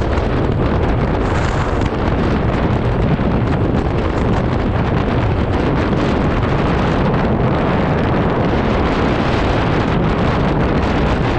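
Strong wind buffeting the microphone of a moving scooter: a loud, steady rumble of wind noise that covers the ride.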